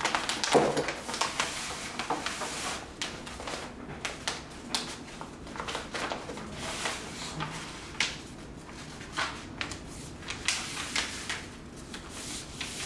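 Stiff paper rustling and crinkling in irregular bursts, with scattered light handling clicks, as knives are wrapped in a sheet of painters' floor paper.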